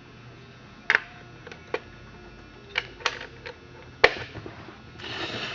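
Sharp clicks and knocks of the metal parts of a vintage Clinton chainsaw being handled, about seven in all, the loudest about four seconds in, followed by a short scraping rustle near the end.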